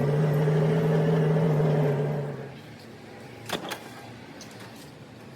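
A machine running with a steady hum, which dies away a little over two seconds in; two sharp clicks follow about a second later.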